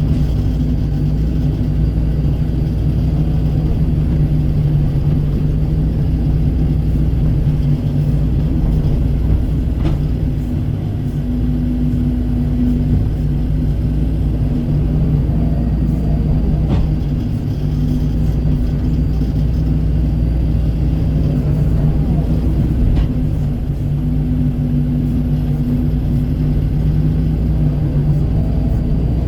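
Kobelco SK135 excavator's diesel engine running steadily under working load, with a few faint knocks from the machine at work.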